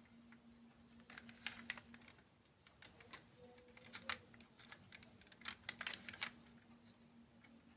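Close-miked crunching of sweets being bitten and chewed: faint clicks and crackles in about four short clusters.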